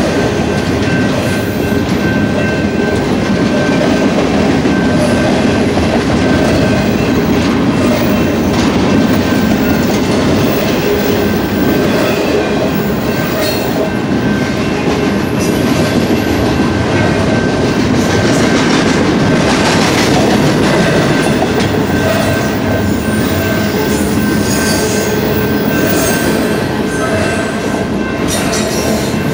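Loaded double-stack intermodal well cars of a BNSF freight train rolling past close by: a loud, steady rumble of steel wheels on rail with repeated clicking. A thin, steady high-pitched ring runs through it.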